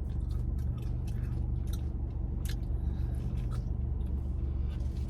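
A person chewing Doritos topped with pickled pepper, close to the microphone: irregular crunches and crackles over a steady low hum.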